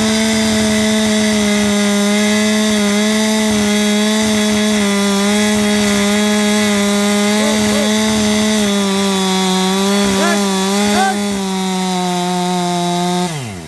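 Chainsaw running at high revs, cutting into a pine trunk, its pitch steady with slight wavering. Near the end the throttle is released and the engine note falls sharply.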